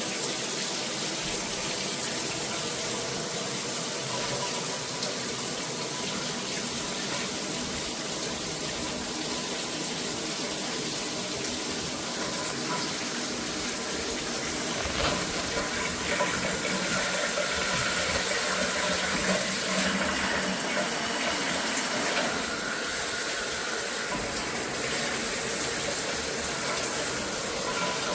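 Water spraying steadily from a G-Promise all-metal shower head onto the shower: an even, unbroken hiss.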